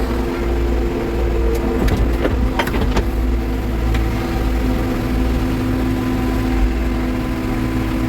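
Backhoe loader's diesel engine running steadily, with a few sharp knocks about two to three seconds in.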